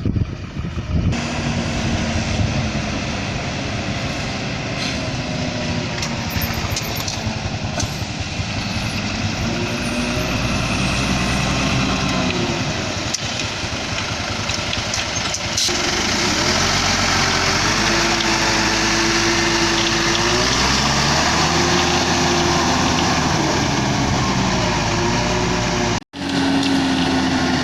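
Diesel engine of a Hino concrete mixer truck running under a dense rushing noise, its revs rising and falling several times. The sound cuts out for an instant near the end.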